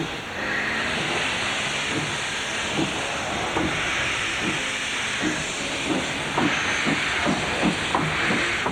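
Steam locomotive hissing steadily, with a series of short thuds that come more often in the second half.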